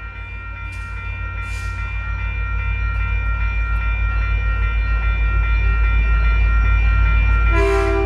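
Caltrain diesel locomotive approaching a grade crossing, its deep engine rumble growing steadily louder over the ringing crossing-signal bells. The locomotive's horn starts to sound near the end.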